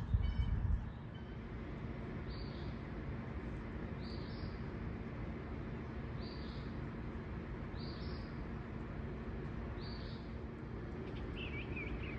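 A bird repeating a short high call about every two seconds, five times, with a different warbling call near the end, over a steady low background rumble. A louder low rumble fills the first second.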